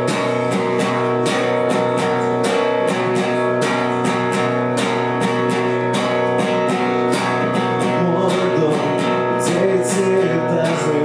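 Acoustic guitar strummed in a steady rhythm, playing an instrumental passage between sung verses of a song.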